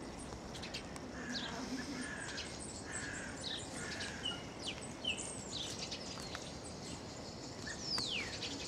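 Small birds chirping in short high notes, with two falling whistled notes about five seconds in and near the end, over a steady outdoor hiss.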